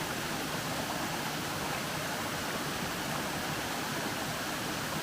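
Waterfall in high flow after heavy rain, a steady rushing of falling water.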